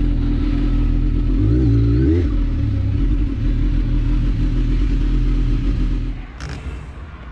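Motorcycle engine running under way, with a brief rise in revs about two seconds in; the engine sound falls away about six seconds in, and a short click follows.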